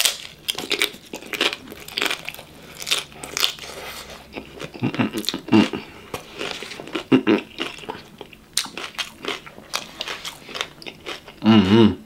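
Close-up eating sounds: a loud bite into a taco at the start, then crunching and wet chewing with many short crackles. A brief voiced hum, like a satisfied "mm", comes near the end.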